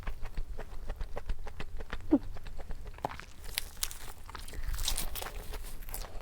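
Close-miked chewing and wet mouth noises of someone eating, with many small clicks and a denser run of crisp crunching clicks in the middle. A short falling tone about two seconds in.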